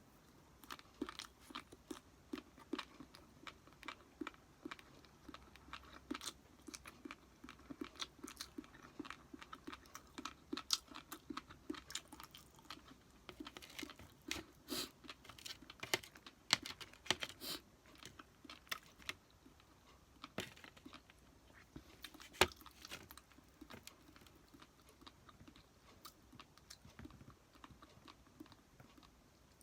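Close-up chewing of sushi: many small wet clicks and crunches, busiest around the middle, with one sharper click a little past the middle.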